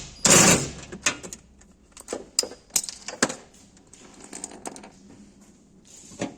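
A brief loud noisy burst, then a string of sharp metallic clicks and clinks of hand tools or small metal parts being handled during car repair work, with one last click near the end.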